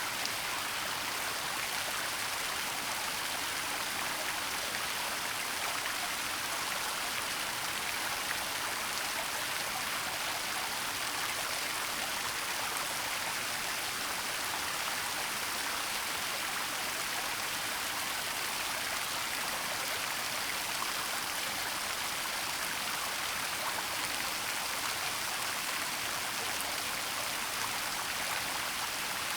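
Waterfall and flowing stream water: a steady, even rush of falling water with a hissing, splashy texture and no distinct events.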